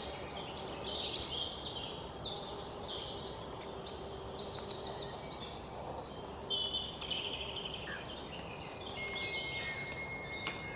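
Outdoor rural ambience of insects chirping in repeated high-pitched pulsed trills, each a second or so long, with a steady thin high tone joining about nine seconds in.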